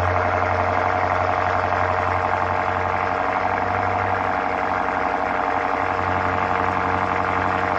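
BMW X6M's twin-turbo V8 idling steadily through an FI Exhaust full exhaust system (downpipes, mid pipe and cat-back), with a deep, even drone and no revving.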